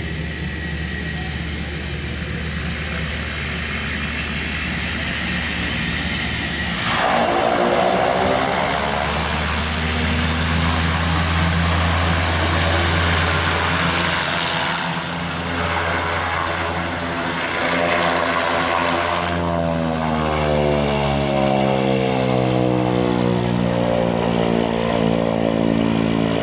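Airplane landing: steady engine and airflow noise that grows louder about seven seconds in. Engine tones shift in pitch through the rest of the landing.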